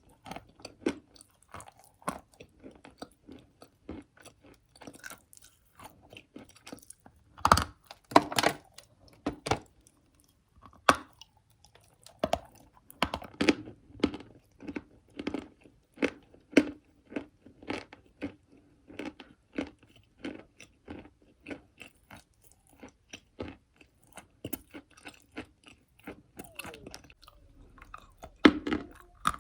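Close-up chewing and crunching of dry chalk in the mouth: a few loud cracking bites, and steady crackly chewing at about two crunches a second between them.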